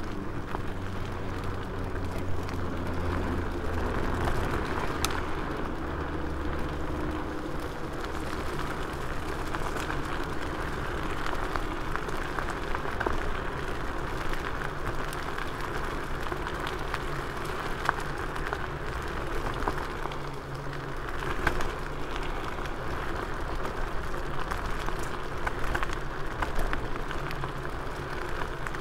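KuKirin G2 Max electric scooter riding over a forest path: tyres rolling over dirt and gravel, with many small clicks and knocks from bumps and a low steady hum underneath.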